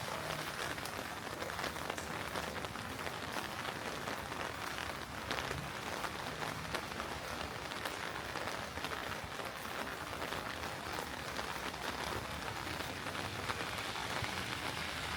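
Heavy rain falling and splashing on hard surfaces: a steady hiss with many individual drops ticking close by.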